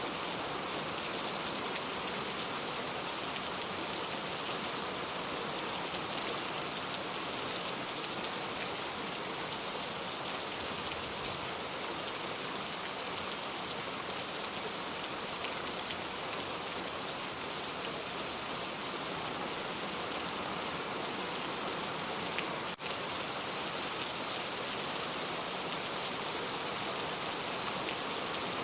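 Steady, even rain falling, with a momentary dropout about three-quarters of the way through.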